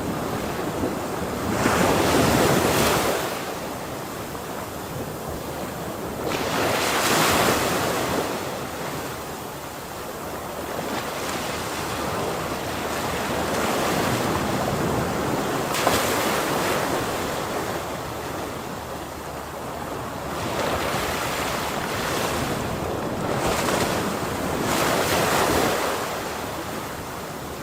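Ocean waves breaking on the shore, with a wash of surf in between. The louder breakers come roughly every five seconds, and there is some wind noise on the microphone.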